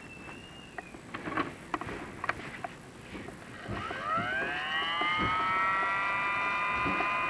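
A few knocks and scrapes, then about four seconds in a small electric motor spins up with a rising whine and settles into a steady run.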